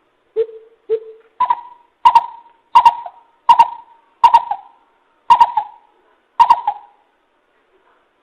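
Coucal (bìm bịp) calling: a series of deep hoots. Two lower notes come first, then seven slightly higher ones that come more and more slowly.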